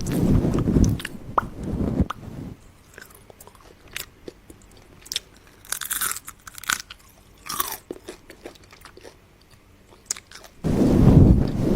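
Close-up crunching and chewing of food in the mouth. It is loudest for the first two seconds and again near the end, with sparse crackly clicks in between.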